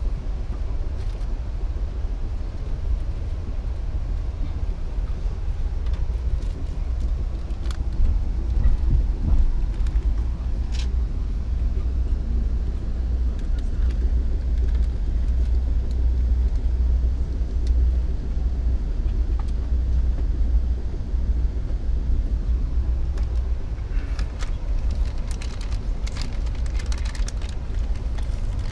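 Steady low rumble of a passenger train running, heard from inside the coach car, with a few faint clicks and rattles near the end.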